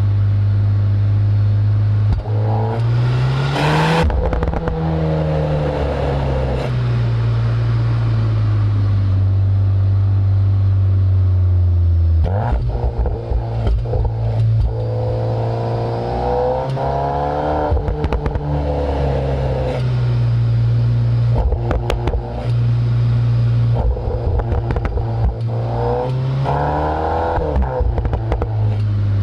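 Volkswagen Golf R 8.5's turbocharged 2.0-litre four-cylinder heard right at its Akrapovič exhaust tips while driving. The engine revs up hard several times and has one long coast-down in between, with bursts of crackles and pops on the overrun and at gear changes.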